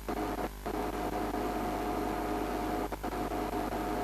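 A steady mechanical hum with several fixed tones over a low drone, briefly dropping out twice.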